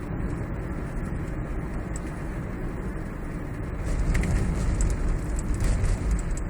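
Road rumble inside a moving Toyota Prius's cabin, growing louder about four seconds in, with a few faint short rattles over it that the owner suspects come from inside the dashboard.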